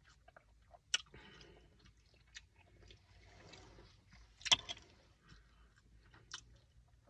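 Close-up chewing and biting of fast food, with soft mouth noises and several sharp crunching clicks, the loudest a little past the middle.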